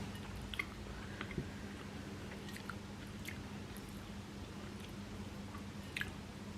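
Soft close-up chewing of idiyappam (steamed rice string hoppers) with vegetable korma, with small scattered mouth clicks, the sharpest about six seconds in. A faint steady low hum runs underneath.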